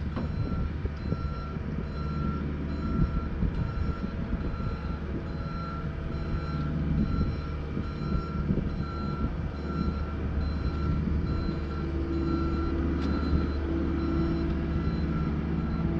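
Vehicle backup alarm beeping steadily, about one and a half beeps a second, over a running engine.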